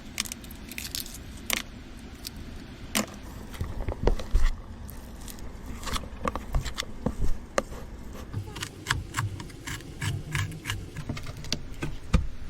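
Irregular light clicks, taps and knocks, with a quick run of evenly spaced clicks about two-thirds of the way in.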